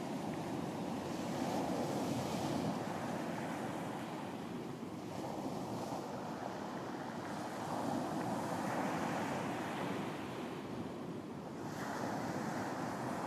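Sea waves breaking and washing onto a beach, a steady rushing that swells and eases in slow surges every few seconds.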